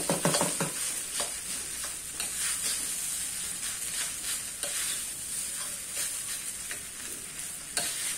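Fried rice sizzling in a large wok while a long-handled metal spoon stirs and scrapes through it, clicking against the pan. A cluster of knocks comes in the first second and one sharp knock near the end.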